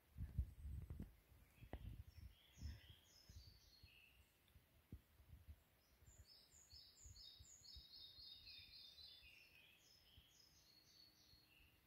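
Songbirds singing: short runs of quick, high repeated notes, with the longest run in the middle. A few faint low thumps in the first three seconds.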